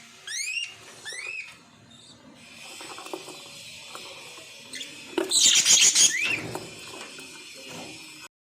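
Lovebirds calling in their cage: three short rising chirps in the first second and a half, then a loud harsh burst of screechy chatter and rustling from about five seconds in, with one more rising chirp at its end.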